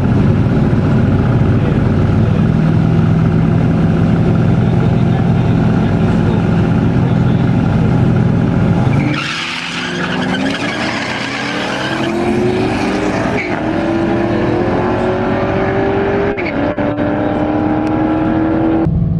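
Turbocharged 4.6-litre two-valve Ford V8 drag car holding a steady engine note at the starting line, then launching about nine seconds in. The engine pitch climbs, broken twice by gear changes, as the car accelerates down the track.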